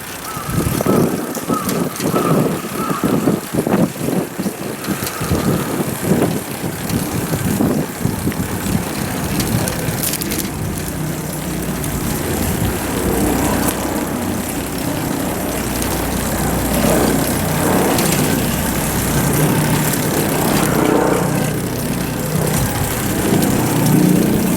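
Street noise heard while riding a bicycle: irregular rumbling and clatter with a brief high squeal in the first three seconds, then a steady low engine hum that grows gradually louder.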